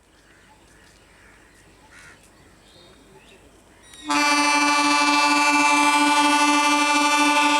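Indian Railways train horn sounding one long, steady blast that starts suddenly about four seconds in, after a few seconds of faint background sound.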